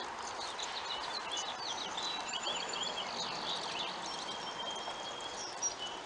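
Birds chirping and singing: a string of quick sweeping chirps and a few held whistles, over steady background noise.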